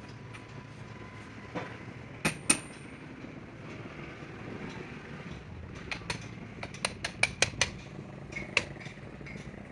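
Sharp metal-on-metal strikes and taps from a tool on metal parts, over a steady low background hum. Two loud, ringing strikes come about two seconds in, then a quick run of about eight lighter taps between six and eight seconds in, and one more near the end.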